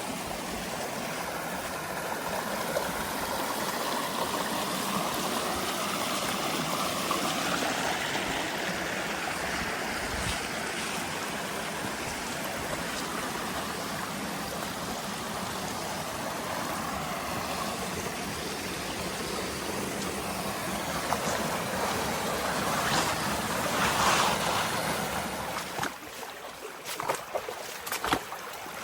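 Creek water running, a steady rushing noise, with a few sharp clicks and knocks near the end.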